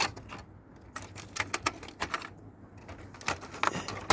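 Irregular small clicks and clinks of metal parts and screws being handled and pried off as a video cassette player is taken apart.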